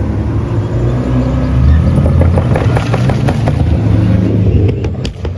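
Car engine revving hard, its pitch climbing over the first second and a half. From about two seconds in there is a rapid crackle of sharp pops, and two or three louder pops come near the end.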